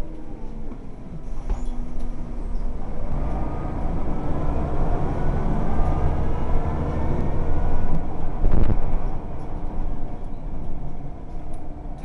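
Scania L49UB bus's engine and ZF four-speed automatic gearbox under way, with a whine that climbs steadily in pitch as the bus gathers speed. About eight and a half seconds in there is a sharp knock, and the whine then eases off.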